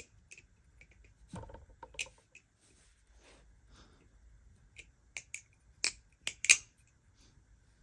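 Marcolo Comet balisong being flipped: irregular sharp metallic clicks as the handles swing and snap shut against the blade, with a duller knock about a second and a half in and the loudest clicks near the end.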